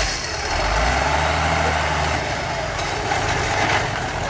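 Off-road race truck's engine working hard on a hill climb. It holds a steady low note for about two seconds before easing off, over a heavy wash of noise.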